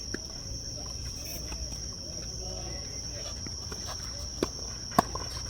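Steady, high-pitched chirring of insects, with two sharp tennis ball strikes near the end, about half a second apart.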